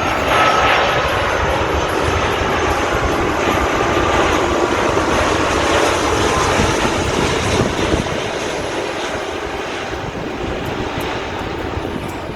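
Wide-body jet airliner landing, its engines making a loud, steady jet noise with a faint whine that falls slightly in pitch. The noise eases off over the last few seconds.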